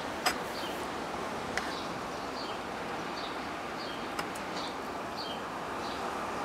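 A steady background hiss with a bird chirping over and over, about every two-thirds of a second, and a few sharp clicks, the loudest just after the start.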